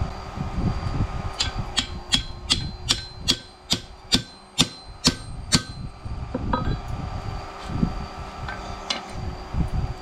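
A quick run of about a dozen sharp strikes on metal, each with a short ring, about three a second, over a steady low rumble.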